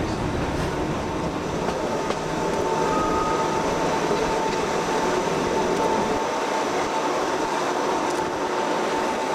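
Gornergrat Railway electric rack train running, heard from inside the carriage: a steady rumble of wheels and rack with a constant whine. The low rumble thins out about six seconds in.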